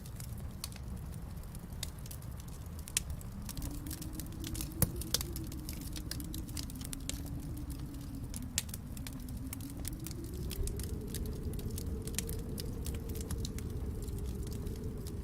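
Wood fire crackling in a fireplace, with irregular sharp pops and snaps, one louder pop about five seconds in, over a low, steady rumble.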